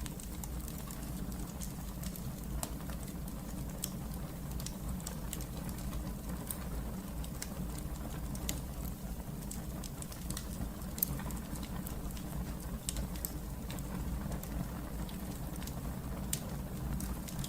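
Wood fire burning in a fireplace: a steady low rumble of the flames with frequent small crackles and pops, one sharper pop a little past the middle.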